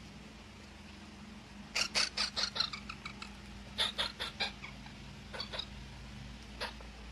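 A parrot giving short, sharp calls in quick runs: several in a row about two seconds in, another run about four seconds in, then a couple of single calls.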